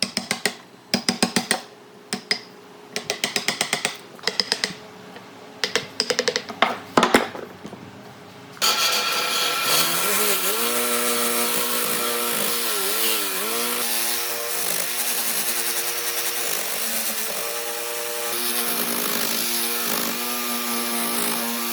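Bursts of quick, sharp tapping clicks, then a power tool starts suddenly about eight seconds in. It spins up to speed and runs loud and steady, its pitch dipping briefly several times.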